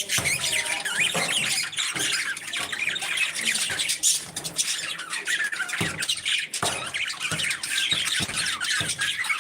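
A flock of parrots chattering and squawking, many short overlapping chirps and squawks at once.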